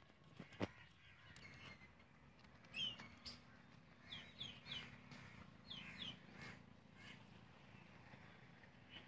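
Faint bird calls: a few short falling chirps, some in quick runs of two or three. A single sharp click sounds about half a second in.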